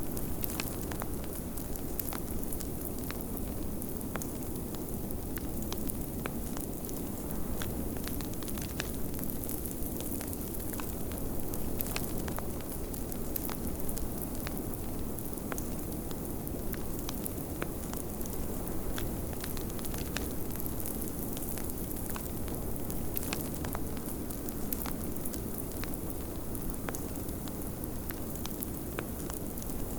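Wood fire crackling, with many small sharp pops scattered through it, over a steady low rush of blizzard wind.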